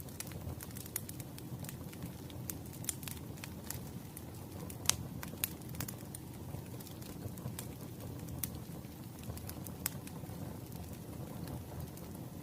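Wood fire burning: irregular sharp crackles and pops of burning firewood over a low steady rumble of the flames, with one louder pop about five seconds in.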